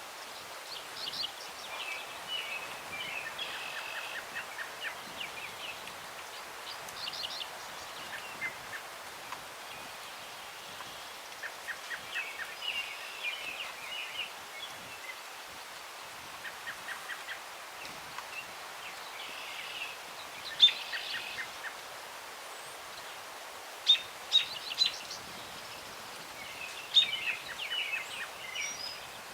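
Several songbirds singing and calling in short repeated phrases over a steady hiss of breeze through tree branches, with a few louder sharp chirps in the last third.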